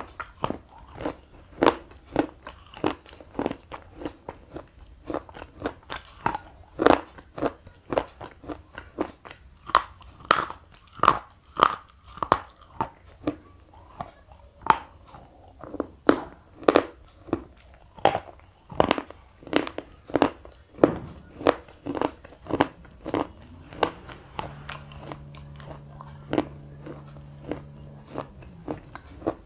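Thick slate pencils being bitten and chewed close to the microphone: a steady run of sharp crunches, about two a second.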